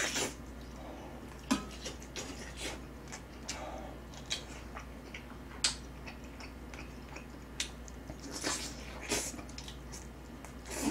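Close-miked chewing of saucy braised chicken drumsticks, with wet mouth sounds. A few sharp clicks come from metal tongs against the dishes.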